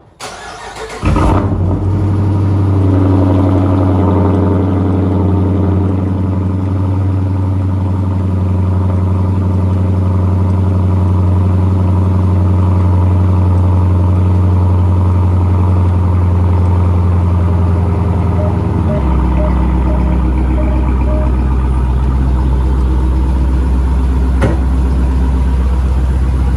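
Cold start of a Dodge Challenger R/T Plus's 5.7-litre Hemi V8. The starter cranks briefly about a second in, then the engine catches and runs at a steady fast idle. About two-thirds of the way through, the idle drops to a lower, settled speed.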